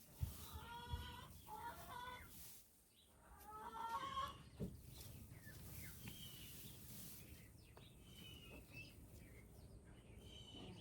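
Domestic chickens clucking, with repeated short calls throughout. Two soft knocks in the first second.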